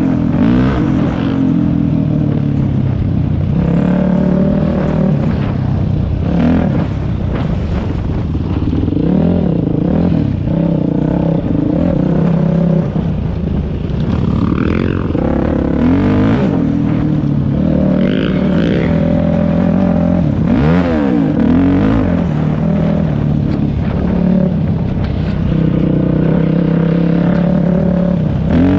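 Dirt bike engine running under load, its pitch climbing and dropping back again and again as the throttle is opened and closed.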